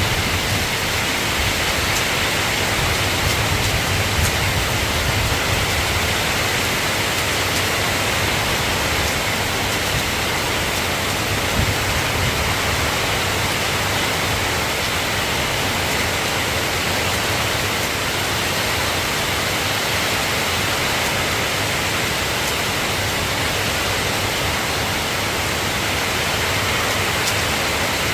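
Steady rain falling, an even hiss with no breaks. A low rumble of thunder dies away over the first few seconds.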